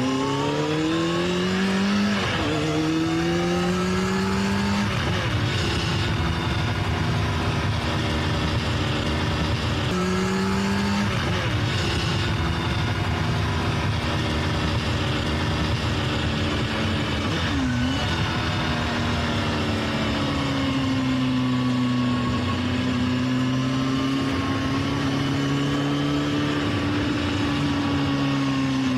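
Motorcycle racing video game's engine sound: a motorbike engine revving up through the gears, its pitch climbing and then dropping at each shift a few times, then holding fairly steady with slow rises and falls near the end.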